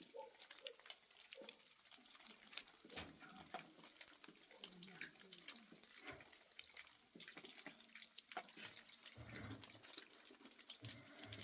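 Faint dripping and trickling water with many scattered small ticks, and a faint voice now and then in the background.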